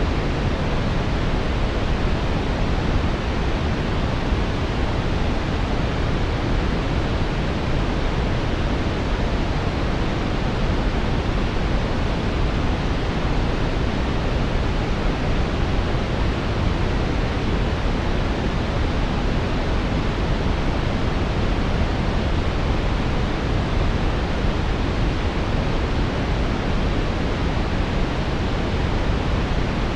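Steady synthetic brown noise: an even, unchanging rushing hiss weighted toward the low end, with no tones or events.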